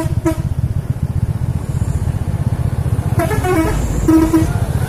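Heavy trucks running with a steady low rumble, and a truck horn sounding in short blasts about three seconds in and again just after four seconds.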